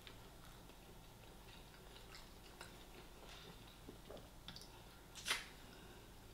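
A person chewing food with the mouth close to the microphone: faint, scattered small wet clicks and squishes, and one short louder burst of breathy noise a little after five seconds in.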